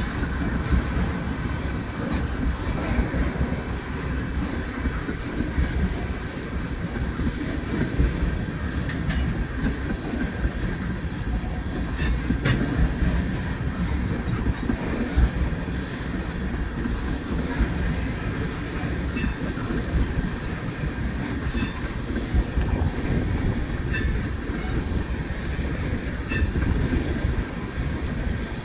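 Railroad tank cars of a long freight train rolling past, with a steady rumble of steel wheels on rail. A faint steady wheel squeal runs under it, and short sharp squeaks or clicks come every two or three seconds in the second half.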